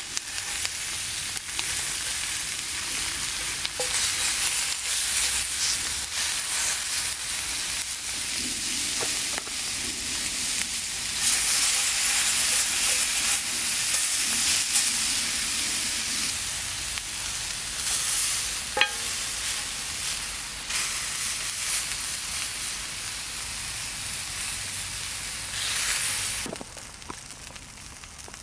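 Marinated pork ribs sizzling as they cook, a steady hissing sizzle that swells for a few seconds midway, with a few light clicks; the sizzle drops off sharply near the end.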